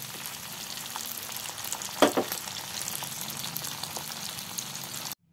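Oil sizzling and crackling steadily as chilies, shallots, garlic and tomato fry in a pan until wilted, stirred with a slotted spatula. About two seconds in, the spatula knocks sharply twice against the pan; the sound cuts off abruptly near the end.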